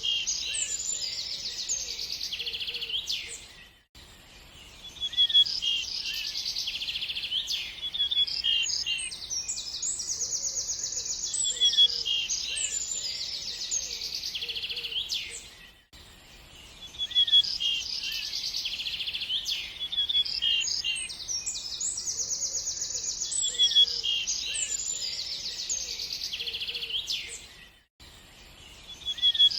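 Songbirds chirping and singing rapid high trills. The same stretch of song repeats about every twelve seconds, each repeat broken by a brief dip to near quiet, as in a looped recording.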